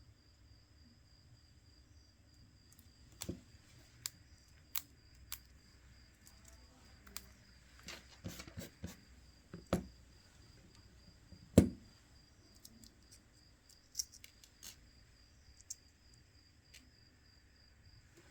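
Scattered sharp clicks and light taps of small tools and phone parts being handled on a repair bench, with one louder knock about two-thirds of the way through, over a faint steady high-pitched whine.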